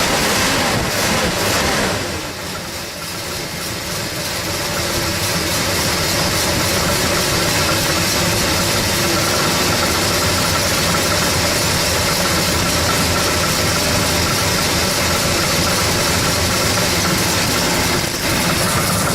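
1970 Oldsmobile Cutlass's V8, a 350 bored out to 403 cubic inches, running at a rumbly idle, still cold just after a cold start. The level dips briefly about two seconds in, then holds steady.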